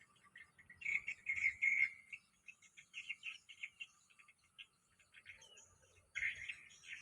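Bulbuls calling in quick bouts of short, rapid chirps: one about a second in, another around three seconds in, and a loud one near the end.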